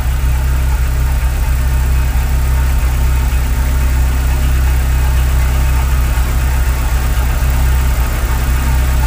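Chevrolet Corsa 1.6 eight-valve four-cylinder petrol engine idling steadily. It is running normally on a newly replaced fuel pressure regulator, its lambda sensor switching evenly between rich and lean.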